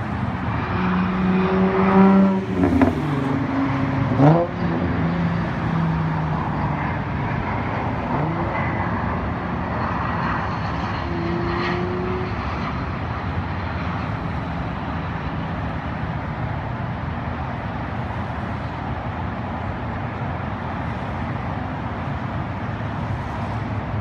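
Straight-piped 2005 Nissan 350Z's 3.5-litre V6 (no resonator, muffler deleted) on a pull: the revs climb to a peak, drop sharply, then climb fast to a second peak with short sharp cracks near both peaks. It then settles to a steady drone at cruise over an even road noise.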